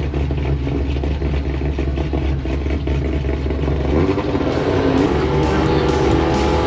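Car engine running with a low, steady rumble; about four seconds in, an engine revs up and background music comes in.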